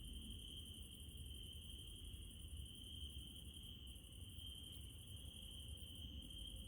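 Night insects trilling steadily at two high pitches, one a fast pulsing chirr, over a faint low rumble.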